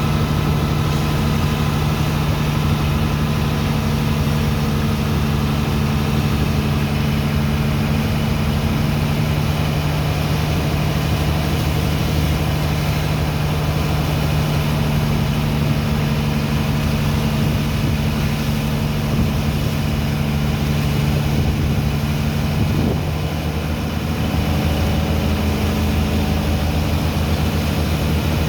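Heavy diesel engine of a sand-unloading dredger running steadily with a deep, even hum. There is a brief slight dip in level about three-quarters of the way through.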